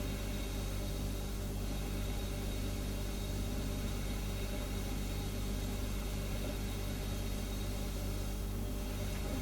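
Refrigerator humming steadily: a constant low drone made of several steady tones, over an even hiss.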